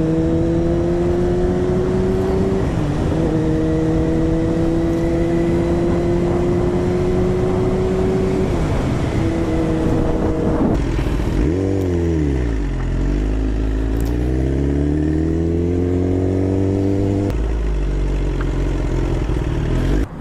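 1000cc sport motorcycle engine under way, its note climbing slowly in each gear, with short breaks at the gear changes. About twelve seconds in the engine note drops sharply, then climbs again.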